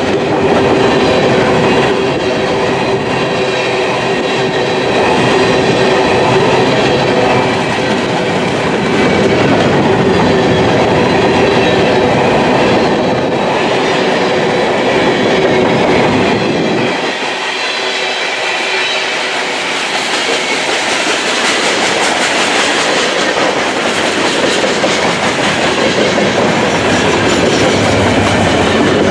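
Freight train cars (covered hopper cars, then gondolas) rolling past, their steel wheels clattering steadily on the rails. A steady whine rides over the wheel noise through the first half, and the low rumble eases about two-thirds of the way in while the cars keep passing.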